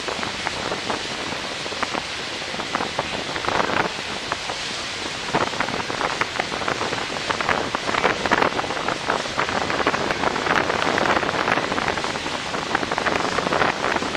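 Wind buffeting the microphone over a steady rush of harbour water, with frequent crackling gusts that grow denser in the second half.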